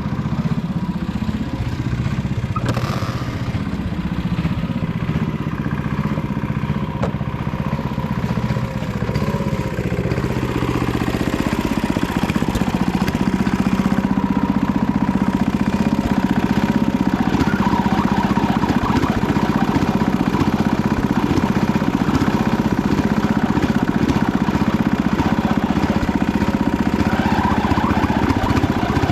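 Panzer T70 tractor's engine running steadily while plowing, with some clatter, growing louder about twelve seconds in.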